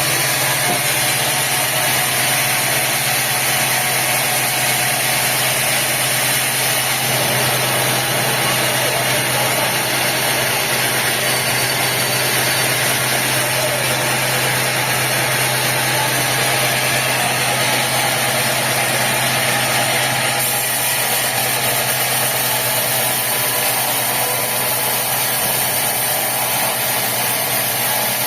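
Sawmill machinery running steadily: a continuous loud mechanical drone with a low hum, shifting slightly in character twice along the way.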